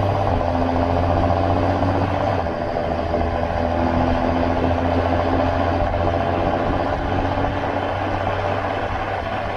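John Deere 7530 Premium tractor's six-cylinder engine running at a steady speed, with a higher whine that comes in twice.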